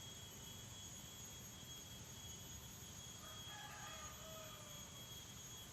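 Faint outdoor ambience: steady high insect tones over a low rushing noise, with a faint distant rooster crow lasting about two seconds, starting about three seconds in.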